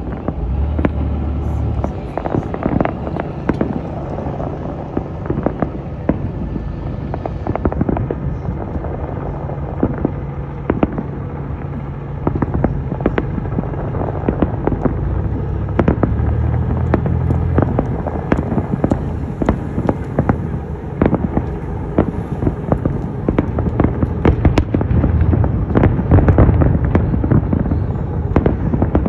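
Fireworks display heard from a distance: a dense, continuous barrage of booms and crackling shell bursts over a steady low rumble, getting busier and louder toward the end.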